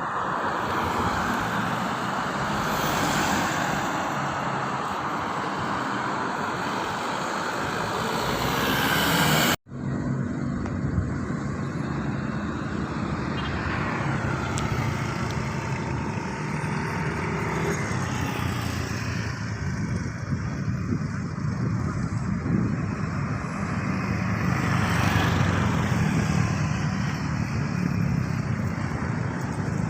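Steady road traffic noise of passing vehicles, cut off by a sudden brief dropout about ten seconds in, then continuing as before.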